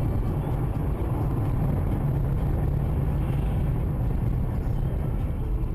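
A car on the move, recorded by a dash cam: a steady low rumble of engine and road noise.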